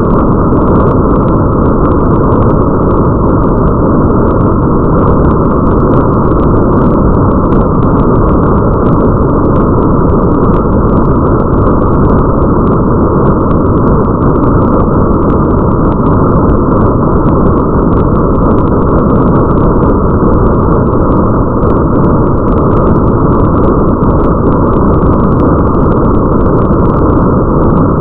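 Steady, muffled rain ambience with a deep rumble, dense and unchanging, with faint scattered drop ticks above it.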